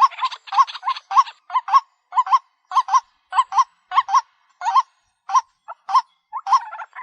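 White-breasted waterhen calling: a run of short, harsh, croaking calls, each with a hooked note. They repeat about two or three times a second and space out in the middle of the stretch.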